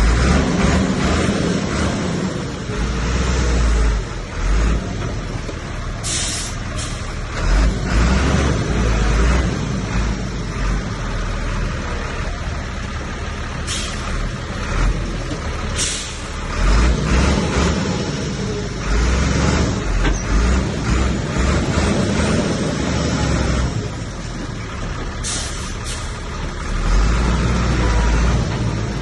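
Komatsu bulldozer's diesel engine working under load, its deep rumble swelling and easing, with four short hissing bursts around a quarter, a half and seven-eighths of the way through.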